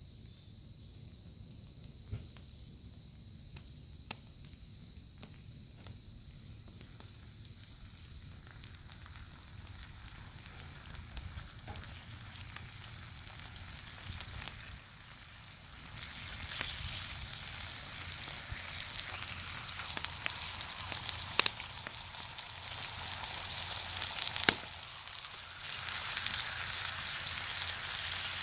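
Bacon sizzling as it fries over a wood fire, with occasional sharp pops. The sizzle starts faint, grows louder about halfway through, dips briefly near the end and then picks up again.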